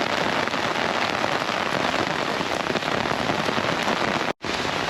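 Heavy rain pouring down steadily, with the sound cutting out for an instant near the end.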